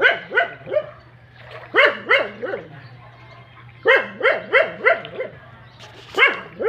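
A dog barking repeatedly, in quick runs of three or four barks about every two seconds, with a steady low hum underneath.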